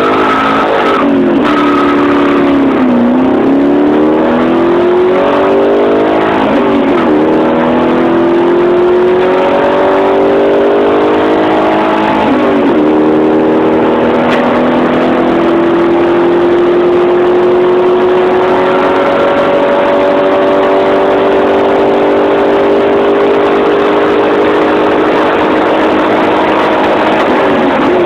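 2006 Pontiac GTO's 6.0-litre LS2 V8 at full-throttle acceleration. The engine's pitch climbs through each gear and drops at each upshift, several times in the first dozen seconds with each gear lasting longer. Then it makes one long slow climb in a high gear, and the pitch drops again at a shift near the end.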